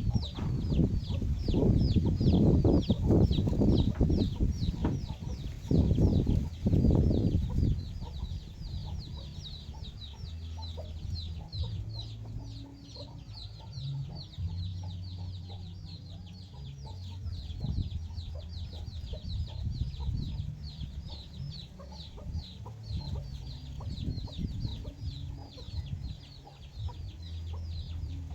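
Free-range chickens: a continuous run of high peeps, several a second, typical of chicks, over low clucking. A louder low rumble with knocks and rustling fills the first eight seconds or so.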